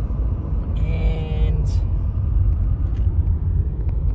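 Steady low rumble of a car driving slowly, road and engine noise heard inside the cabin.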